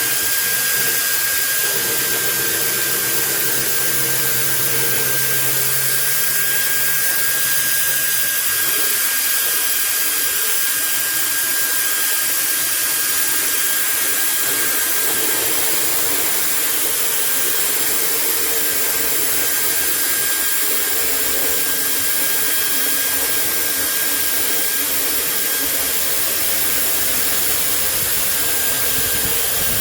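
Electric drill motor running steadily, a continuous high whirring hiss with a faint steady whine.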